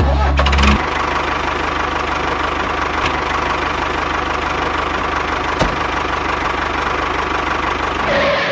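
Engine starting with a loud burst, then running steadily with a fast, even low knocking, cutting off suddenly near the end.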